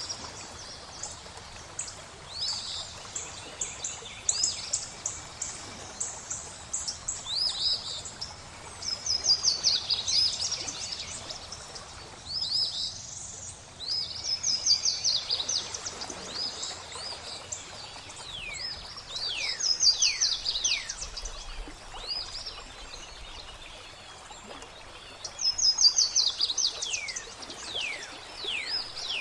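Songbirds singing in bursts of rapid high trills every few seconds, with some sharply falling whistled notes near the end, over the steady rush of flowing water.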